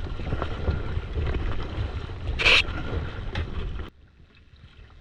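Wind buffeting the microphone over water while kayaking, with a short sharp splash-like noise about two and a half seconds in. The rumble cuts off suddenly about four seconds in, leaving a much quieter hiss.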